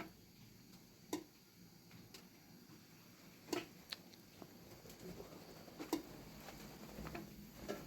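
A series of separate sharp taps or ticks, about seven in all at uneven spacing, roughly one a second.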